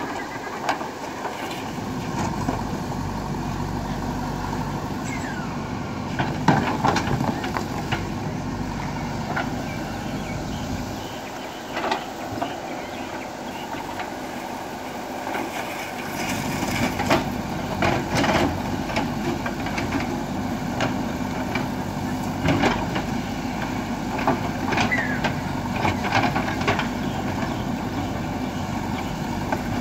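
Diesel engine of a heavy earth-moving machine running under work, with scattered knocks and clanks throughout and busier banging in the second half.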